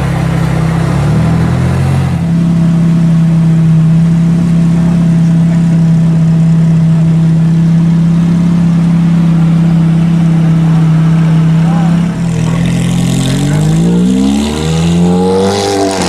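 Ferrari F430 Spyder's V8 with its catalytic converters removed, held at a steady engine speed for about ten seconds, then revving up over a few seconds and dropping off near the end.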